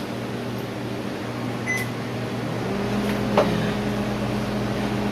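Panasonic microwave oven being started: a short keypad beep, then a little over two and a half seconds in it begins running with a steady low hum that grows louder, with a single click partway through.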